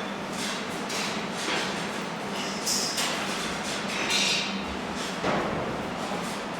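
Workshop noise: irregular metal knocks and scrapes over a steady low hum.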